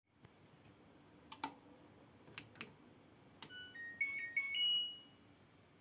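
LG washing machine control panel: a few button clicks, then a short electronic tune of beeps at changing pitches, ending on a longer note.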